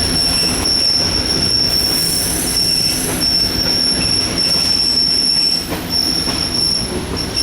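Passenger train rolling on the track, heard from aboard: a steady low rumble of wheels on rail, with a thin high-pitched wheel squeal that keeps cutting out and coming back.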